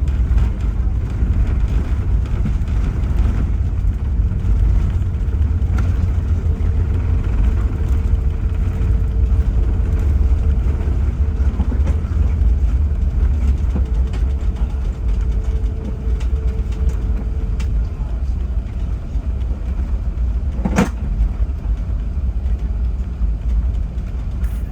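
Steady low rumble of an Airbus A380 airliner during its landing. A faint steady hum is also heard through the middle, and there is a single sharp click near the end.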